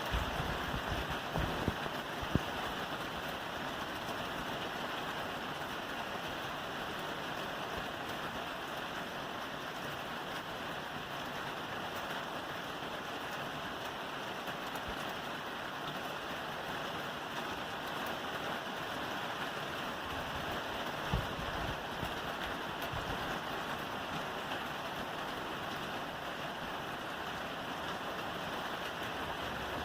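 Steady rain falling on a roof, a dense even hiss of drops, with a few low thumps in the first couple of seconds and once about two-thirds of the way through.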